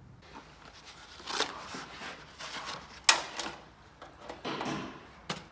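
Hand tools working the bottom starter bolt on a Jeep engine: irregular metallic clicks and clinks of a wrench and socket on the bolt, with short scraping sounds and one sharp clank about three seconds in.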